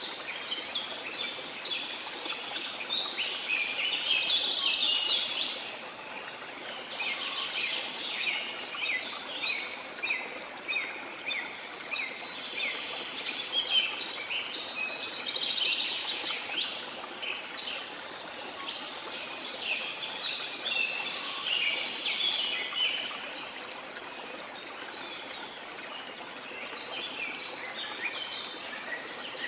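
Several birds singing together in bouts of quick chirps and trills, with a lull near the end, over a steady rush of flowing water.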